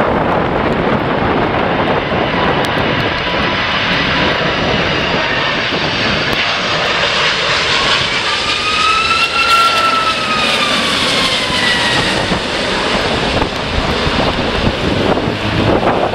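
Jet airliner passing close on its landing approach: a steady engine rush with a whine that rises and then falls in pitch as it goes by, about halfway through.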